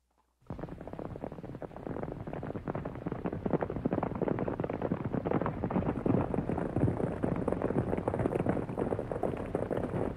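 A herd of horses galloping on dirt, many hoofbeats overlapping into a steady drumming that sets in about half a second in.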